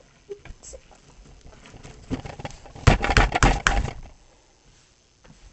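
Hands squeezing and pressing Mars Mud putty, scattered soft ticks and then a dense burst of wet crackling and squelching clicks about three seconds in that lasts about a second.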